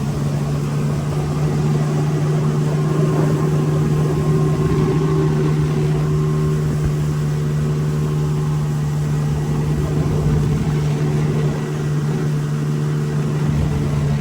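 Jet ski engine running at a steady speed, a constant hum with even overtones.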